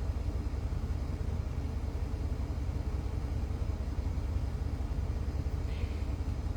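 Steady low rumble of a vehicle with its engine running, heard from inside the car. A brief faint chirp comes near the end.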